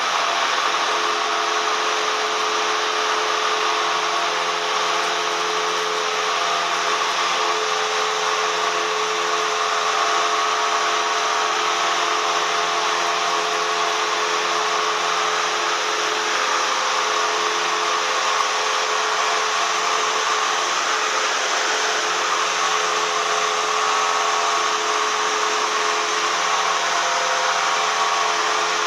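Cessna 172M's four-cylinder Lycoming engine and propeller running steadily, an even drone with a few steady tones under it.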